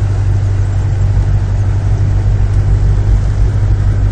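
A motor vehicle's engine running steadily, heard close up, with a strong, even low hum.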